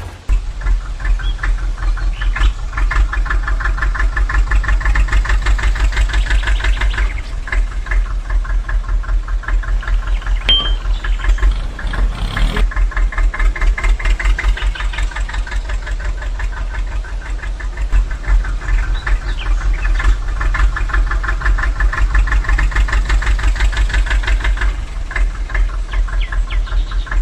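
Small diesel engine running steadily with a fast, even chugging beat.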